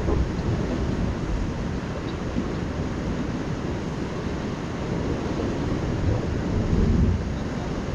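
Wind buffeting the microphone over the wash of sea surf, a steady rumbling noise that swells a little near the end.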